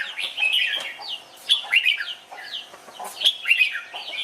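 Several red-whiskered bulbuls calling and singing over one another: a busy run of short, clear whistled notes, many of them sliding downward.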